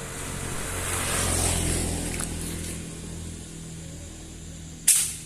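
A vehicle passes, its low rumble swelling and fading over the first three seconds. Near the end comes one sharp, loud crack.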